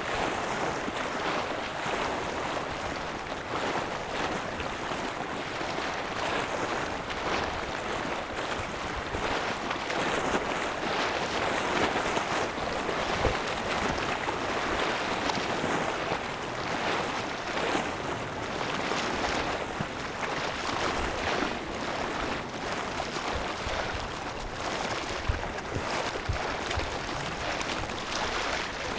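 Steady rushing noise of wind and waves, rising and falling slightly, with no engine tone or voices.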